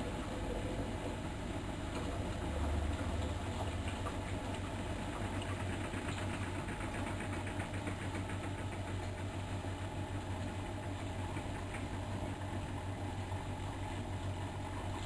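Miele Novotronic front-loading washing machine running steadily through a 95 °C boil wash, with a low, even hum and a rough mechanical rustle over it.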